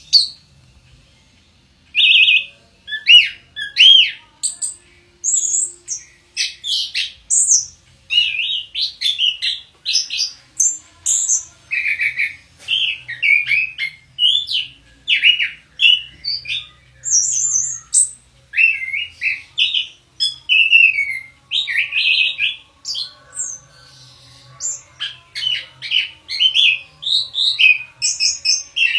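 Chestnut-capped thrush (anis kembang) singing a long, unbroken run of rapid, varied whistled and chirping phrases, starting about two seconds in.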